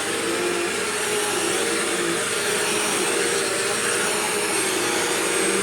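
Bissell CleanView Swivel upright vacuum cleaner running steadily, a constant rushing air noise with a steady hum and a thin high whine.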